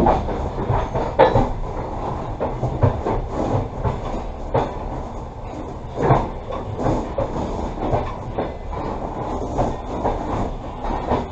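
Passenger train carriage rolling along the track, heard from inside the carriage: a steady rumble of wheels on rail broken by irregular sharp knocks and clacks, the loudest about a second in and around four and a half and six seconds in.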